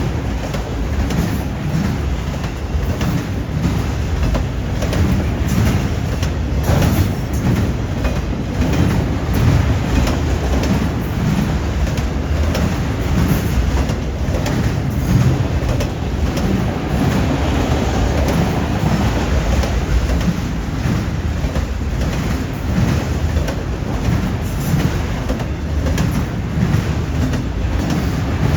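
CN freight train rolling steadily past at close range: a continuous low rumble of wheels on rail, with frequent sharp clicks as the wheels cross rail joints and switch points.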